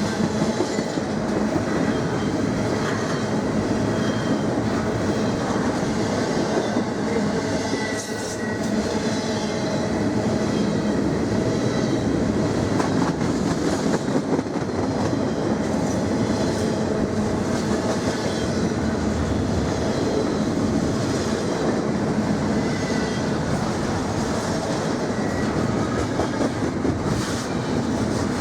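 Canadian National intermodal freight train rolling steadily past, its wheels clacking over the rail joints, with faint squealing from the wheels now and then.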